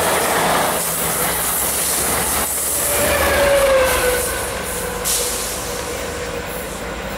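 MARC diesel-hauled commuter train rolling past, with the locomotive's engine running underneath. About three seconds in, a thin wheel squeal slides down in pitch.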